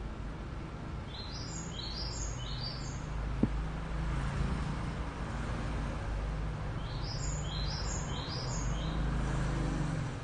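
A bird chirping twice, each a quick run of short high chirps, over a steady low hum. A single sharp click comes a little over three seconds in.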